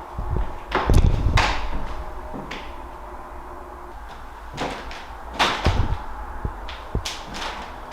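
Irregular knocks and thumps of a person moving about an old house, the loudest a heavy thud about a second in and another cluster around five and a half seconds.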